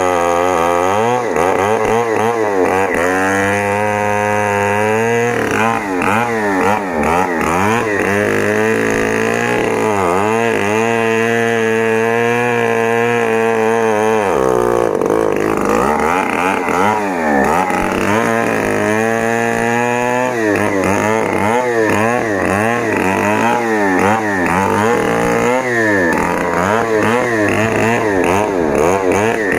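Stihl 070 two-stroke chainsaw running at high revs through a cut in a log, its pitch dipping and recovering again and again as the chain loads up in the wood.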